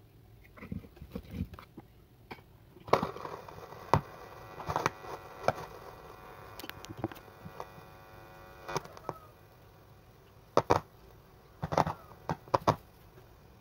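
Homemade TDA2030 amplifier's speaker giving sharp clicks and crackles. A buzzing hum runs from about three seconds in to about nine seconds in, the kind of mains hum an amplifier picks up while its cables or inputs are being handled.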